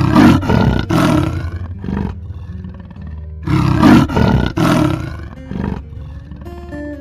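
A large animal roaring in two bouts of rough, pulsed calls, each about a second long, with weaker calls between them, over background music.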